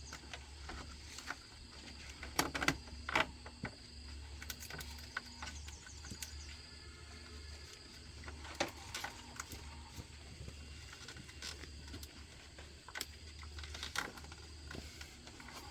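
Scattered clicks and knocks, the loudest two about two and a half and three seconds in, over a steady low hum and a faint high steady tone.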